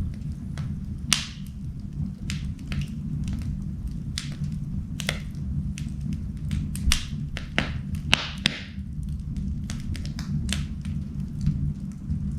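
Wood fire in an indoor fireplace crackling, with irregular sharp pops over a steady low rumble of the burning fire. The loudest pops come about a second in and again about two-thirds of the way through.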